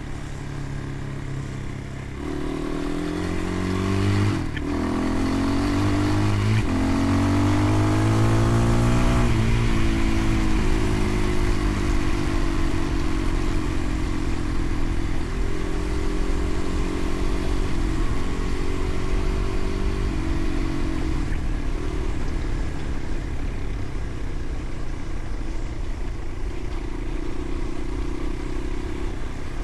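Motorcycle engine accelerating through the gears. The pitch climbs and drops back at each of three upshifts in the first ten seconds or so. The engine then settles into a steady cruise, rising and falling a little.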